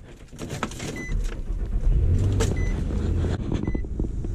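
A Nissan truck's engine being started and then settling into a steady idle. Three short, high dashboard chimes sound during it.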